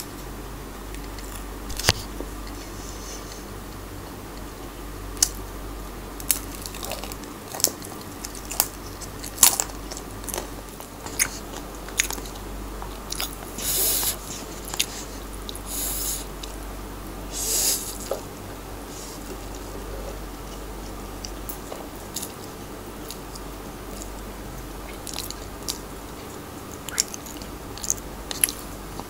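Close-miked eating of Samyang Buldak spicy noodles: wet mouth clicks and chewing throughout, with a few longer slurps of noodles about halfway through.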